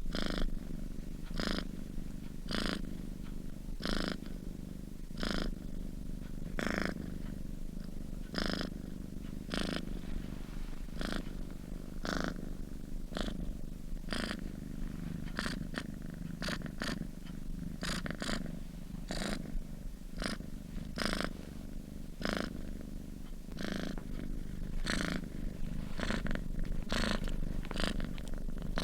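Domestic cat purring in its sleep: a steady low purr with a soft breathy pulse about once a second, coming quicker in the second half.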